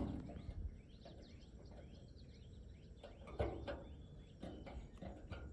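Faint outdoor background: small birds chirping over a low steady rumble, with a few soft knocks.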